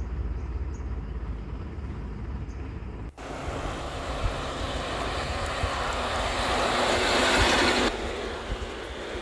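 Truck on the move: a steady low engine rumble, then, after a sudden break about three seconds in, louder engine and road noise that builds and drops off suddenly near the end.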